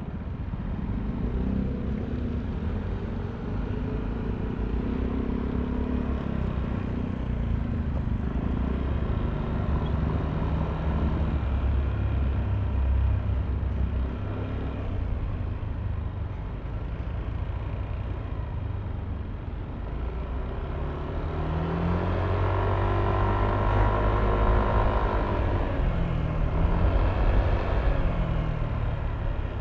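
Yamaha Aerox V3 scooter's 155 cc single-cylinder engine running under way over a steady low road rumble. It speeds up and eases off a few times, most strongly about three-quarters of the way through.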